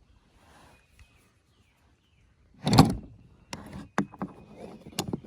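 Steel rifle bolts of a Swiss K11 and K31 being handled: one loud scraping slide about two and a half seconds in, then a run of sharp metallic clicks and taps.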